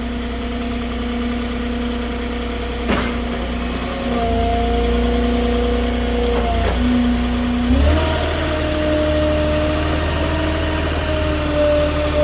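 Moffett truck-mounted forklift's engine running steadily, its pitch stepping up about four seconds in and its low hum growing louder near eight seconds. A sharp click about three seconds in and a high hiss for a couple of seconds in the middle.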